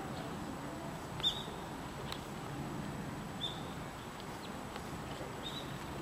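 Steady outdoor background noise with about three short, high bird chirps a couple of seconds apart.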